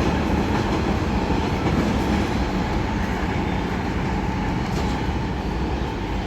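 Coaches of an express train rolling past at speed: a steady rumble of wheels on the rails with a little clatter, easing off slightly toward the end.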